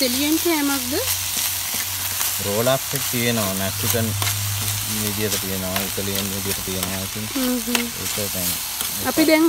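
Chicken and bell pepper strips sizzling in a hot grill pan as they are stirred and turned, with light clicks of the utensil against the pan.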